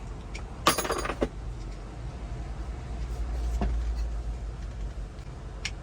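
A short clatter about a second in, then a couple of light clicks, from parts being handled during a truck blower-motor replacement, over a steady low rumble.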